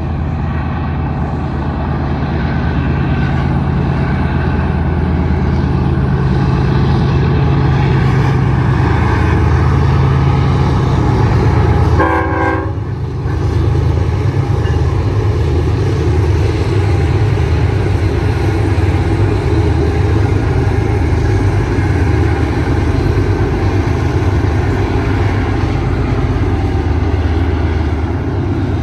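Two GE C44-9W diesel locomotives on a BNSF intermodal train running past close by, with a steady heavy engine rumble and rail noise. There is a short dip in the level about twelve seconds in.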